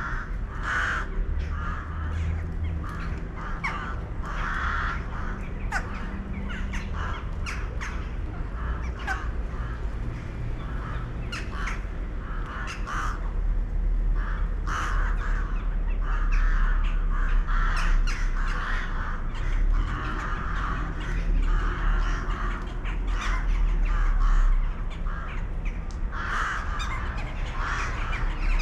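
Birds calling over and over with harsh, grating calls, coming thick and fast in the second half, over a steady low rumble.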